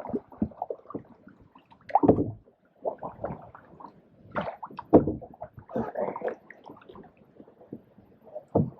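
Canoe paddle strokes splashing and gurgling in the water while the canoe is turned around, with irregular knocks and thumps.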